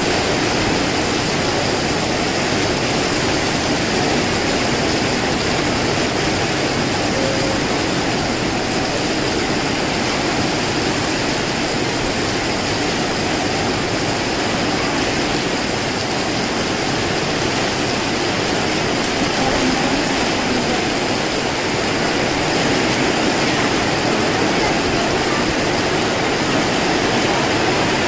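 Heavy rain and strong wind in a storm: a loud, steady, even rushing noise.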